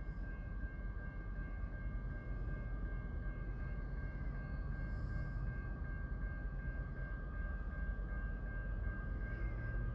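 Distant approaching train: a low steady rumble, growing slightly louder, with a thin steady high whine over it.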